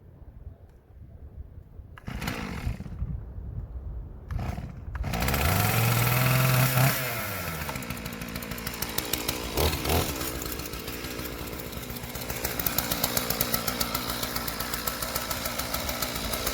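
Stihl MS 461 chainsaw, fitted with a 36-inch bar in an Alaskan sawmill, starting up about five seconds in. It revs high for a couple of seconds, then drops back and runs steadily with an even pulsing beat.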